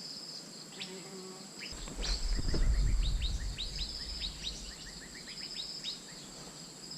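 Asian fairy-bluebird calling: a run of short, quick notes that each slide downward, over a steady high insect drone. A low rumble comes in under them about two seconds in and fades over the next two seconds.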